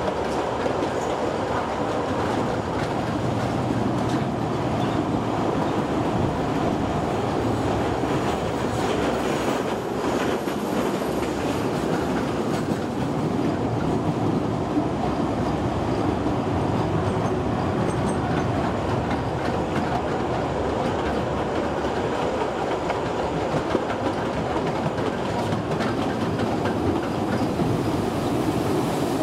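Kurobe Gorge Railway narrow-gauge trolley train running steadily along the track: continuous noise of the wheels on the rails, heard from aboard the train.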